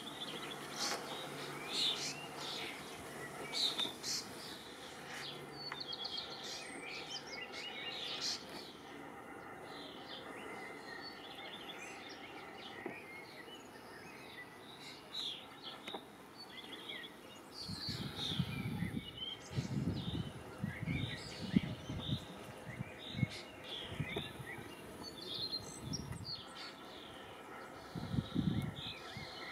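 Small birds chirping and warbling repeatedly in short high notes throughout. About two-thirds of the way in, irregular low rumbling thumps set in and are the loudest sound.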